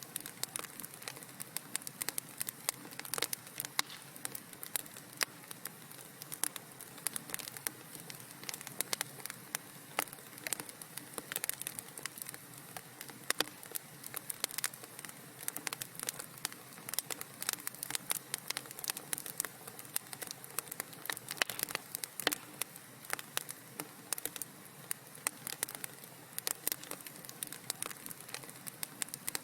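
Wood fire in a fireplace crackling and popping: dense, irregular sharp snaps over a soft steady hiss.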